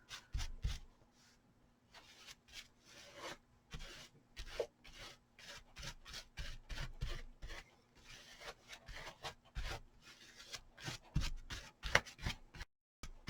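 Paintbrush strokes brushing a waterproofing gel onto a fabric hat: a run of short, scratchy swishes, about two or three a second.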